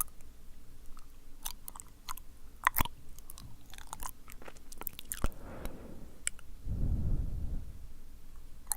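Wet, sticky ASMR mouth sounds close to the microphone: scattered tongue and lip clicks and smacks, with two soft breathy rushes a little past halfway.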